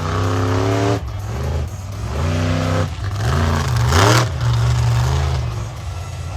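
Monster truck engine revving hard again and again, its pitch climbing and dropping several times as the throttle is opened and lifted during freestyle driving.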